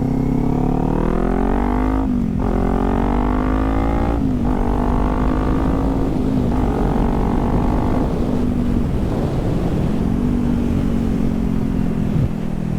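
Kawasaki Z400's parallel-twin engine accelerating hard, rising in pitch with quick upshifts about two and four seconds in. It then holds a steady high speed, eases off briefly around nine seconds and pulls again, over steady wind rush.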